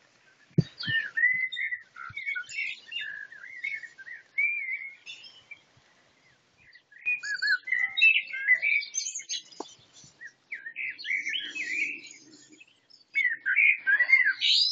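Songbird singing a varied, warbling song of quick gliding notes in phrases, with a pause of about a second and a half midway. A couple of soft thumps near the start.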